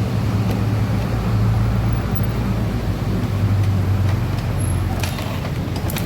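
An engine running with a steady low hum, and a few sharp clicks near the end.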